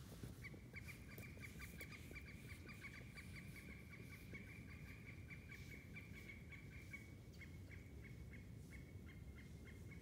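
A faint bird call: one long, even series of rapid repeated notes at a single pitch, about five or six a second, slowing slightly near the end.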